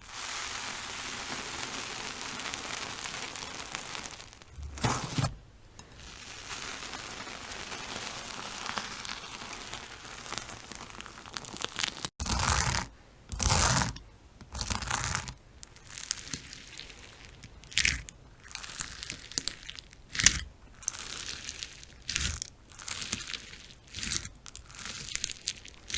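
Slime being squeezed and kneaded by hand, crackling and crinkling: a steady crackly hiss for about the first twelve seconds, then a run of short separate crunches and pops.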